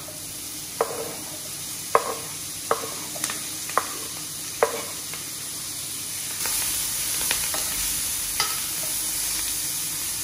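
A metal spoon knocks and scrapes chopped onion, garlic and green onion off a wooden cutting board into a stainless-steel pan of hot garlic butter, with a sharp knock about every second. About six seconds in, the sizzle grows louder and brighter as the seasonings sauté, with light spoon ticks as they are stirred.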